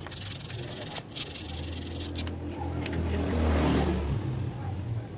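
Fine 1000-grit sandpaper rubbing on a burned power-window switch contact, sanding it flat to clean off the burn, with a few light clicks; the rubbing swells about three and a half seconds in. A low steady hum runs underneath.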